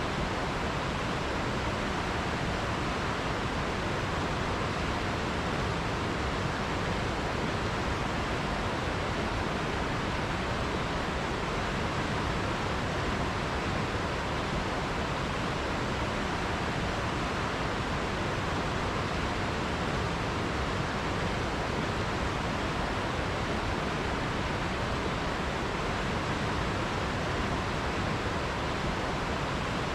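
River water rushing steadily, an even, unbroken noise with no separate splashes or calls.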